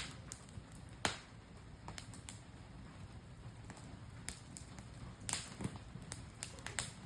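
Wood campfire crackling: irregular sharp pops, the loudest about a second in and a few close together a little past five seconds, over a low steady rumble.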